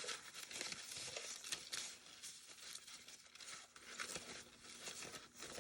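Paper rustling and crinkling as papers are handled and shuffled, with frequent short crackles.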